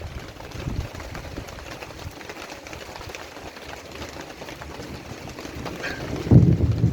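Steady heavy rain falling and spattering on surfaces, with a loud low rumble of thunder starting near the end.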